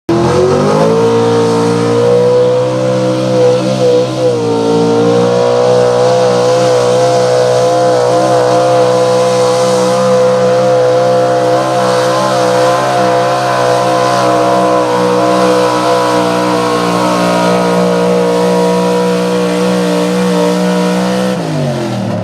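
Pulling truck's engine at full throttle during a sled pull, holding a steady high note. The note dips briefly about four seconds in, and near the end the pitch falls as the driver lets off the throttle.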